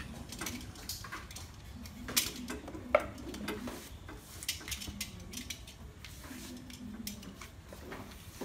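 Metal objects being handled and set down: scattered clinks and knocks, the two sharpest about two and three seconds in.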